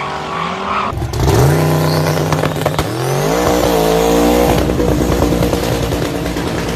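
Twin-turbo 7.3-litre LS V8 in an Opel Kadett revving hard. After a brief break about a second in, its pitch climbs sharply and holds, then climbs again a couple of seconds later before settling into a rougher note.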